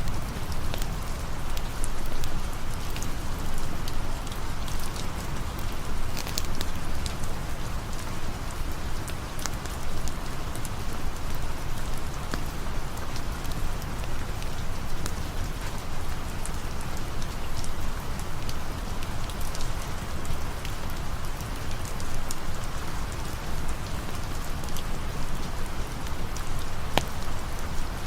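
Steady rain ambience mixed with a campfire: an even hiss of rain, with scattered sharp ticks and pops.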